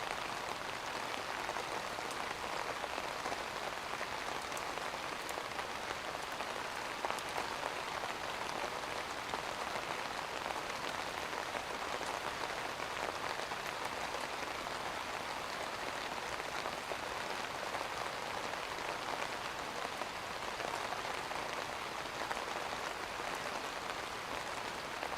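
Steady rain falling, an even dense patter with faint scattered drop ticks.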